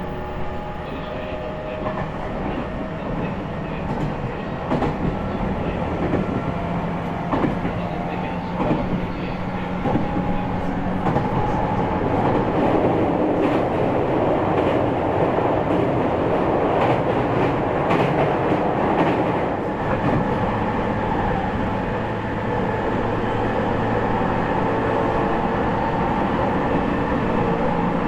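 Running sound inside a JR East E501 series motor car: a faint whine from the Toshiba IGBT inverter and traction motors, rail-joint clicks, and wheel-on-rail noise that grows louder from about ten seconds in and then holds.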